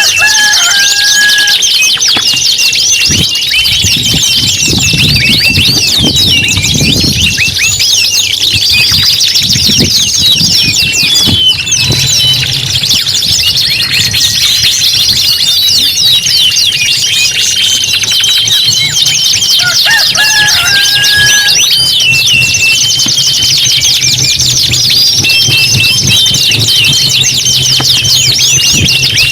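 Several domestic canaries singing at once: a dense, continuous chorus of rapid high trills and rolls. A short, lower whistled note cuts in near the start and again about twenty seconds in.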